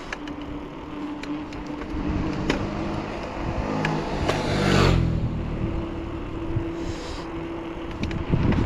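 Motor vehicle engine running on the road, with one vehicle swelling to its loudest as it passes close about four to five seconds in, over the rush of a bicycle riding downhill.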